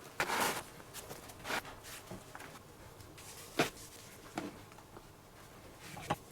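Leather lace being pulled through the lacing holes of a baseball glove: several short rasping pulls, mixed with the rustle and knocks of the leather being handled, and a sharp tap about three and a half seconds in.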